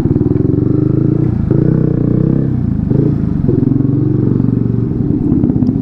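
Motorcycle engine running loud through an aftermarket exhaust, with a fast, even low thump, while the bike is moved at low speed. The pitch shifts slightly twice with small throttle changes.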